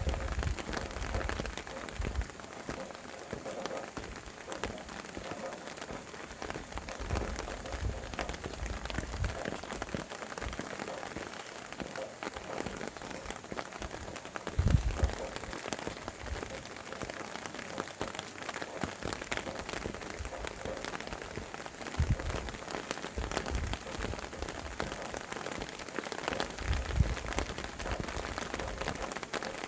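Steady rain pattering and hissing, with a few brief low rumbling gusts of wind, the strongest about halfway through.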